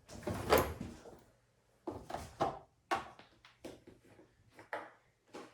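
Irregular clicks and knocks, about ten in all with the loudest about half a second in, from handling the washing machine's detergent drawer while filling it with soap.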